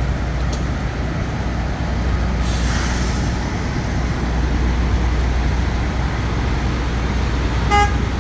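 Steady low rumble of idling diesel trucks in a truck stop lot, with a brief hiss about two and a half seconds in and a short vehicle horn blast near the end.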